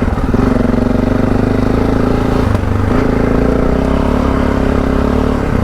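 Heavy adventure motorcycle's engine running under throttle on a muddy off-road track, with a brief dip in revs about two and a half seconds in before it pulls steadily again.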